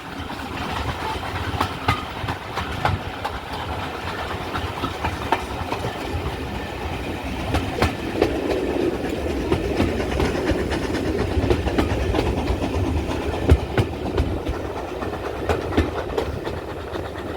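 A train rolling past on the rails: a steady rumble of wheels with scattered sharp clicks over rail joints, strongest in the middle.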